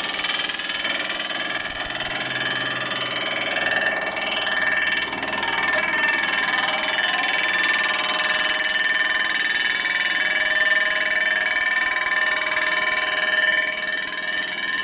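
Metal-cutting tool screeching as it faces the chrome-plated primary cover: a steady, high-pitched, ringing squeal of many tones that wavers throughout the cut.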